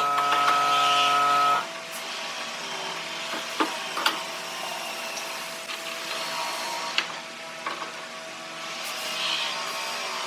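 A power tool's motor running with a steady whine that cuts off abruptly about a second and a half in. After that comes a quieter steady hum with a few sharp knocks.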